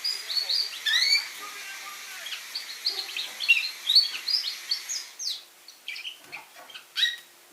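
Young red factor canary singing: a fast string of short chirps and rising notes, thinning to scattered calls after about five seconds.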